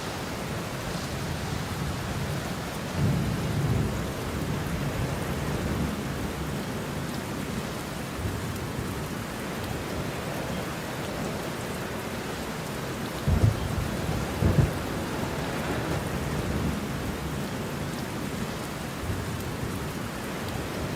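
Steady heavy rain with thunder rumbling low, swelling about three seconds in. Two sharper claps come close together past the middle.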